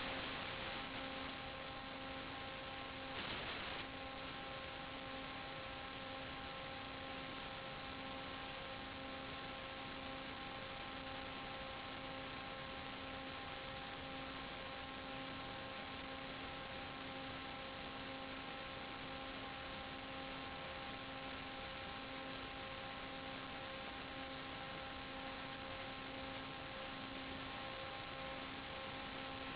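A steady hum with a row of even overtones over a constant hiss, with a brief rise in the hiss about three seconds in.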